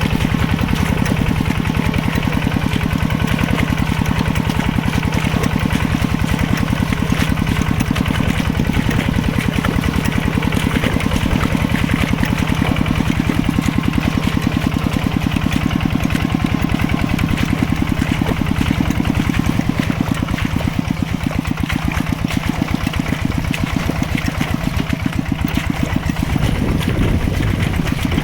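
Mini tractor engine running steadily with a fast, even chugging pulse.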